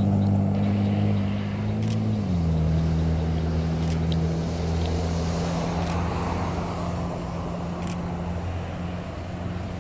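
A motor vehicle's engine running nearby, its pitch dropping in a step about two seconds in and then holding steady as the sound slowly fades. Faint short clicks come about every two seconds.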